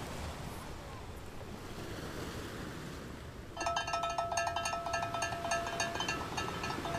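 A steady rushing noise, then about halfway in a bright ringing, fast-repeating tinkle of bell-like tones starts and keeps going.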